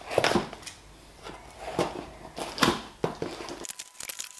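Packaging being handled during an unboxing: crinkling, rustling and light knocks in irregular bursts.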